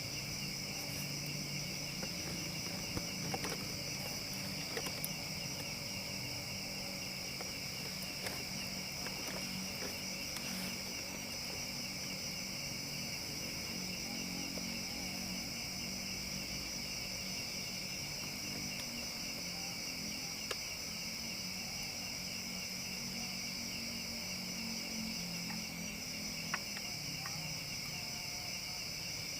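Steady chorus of forest insects, crickets or similar, shrilling in two high bands, with a few faint sharp clicks scattered through it.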